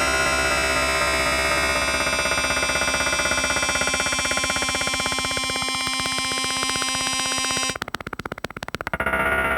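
Eurorack modular synthesizer playing a dense, harsh drone of many held tones. About eight seconds in it breaks into a rapid stutter for about a second, then the drone comes back with less high end.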